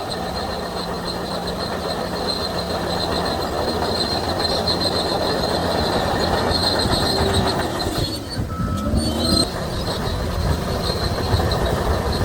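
Shantui DH17C3 crawler bulldozer running under load, its steel tracks squealing and clanking continuously over the engine's steady drone.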